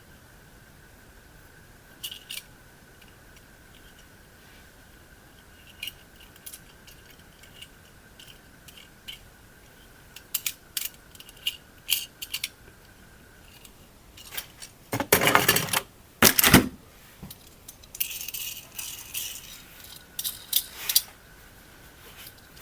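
Handling noises of small hard objects: scattered clicks and rattles, with two loud crackling bursts about fifteen and sixteen seconds in and a rustle shortly after. A faint steady high tone sits underneath and drops out for several seconds in the middle.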